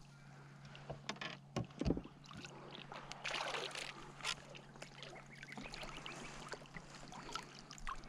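Water splashing and scattered small knocks and clatter in a fishing kayak while a just-landed bass is handled, over a faint steady hum.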